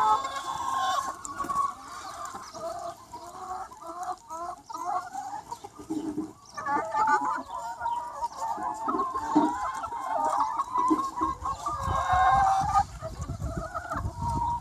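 A large free-range flock of chickens clucking and calling over one another, many birds at once in a continuous chatter.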